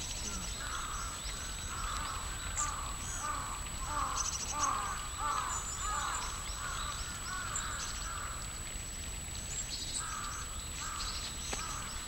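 Birds calling: a long run of short harsh calls, about two a second, that pauses briefly late on, with a few thin high chirps over them.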